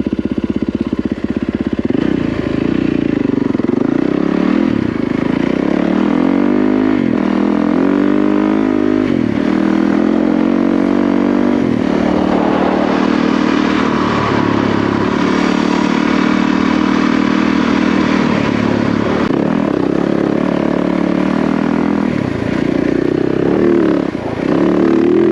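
Yamaha WR450F dirt bike's single-cylinder four-stroke engine pulling away and being ridden, revving up and dropping back through the gears several times in the first ten seconds, then running more steadily with a last rise near the end.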